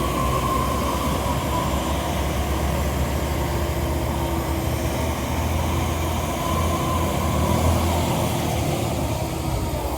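Heavy vehicle engine running steadily: a continuous low drone with a faint whine above it.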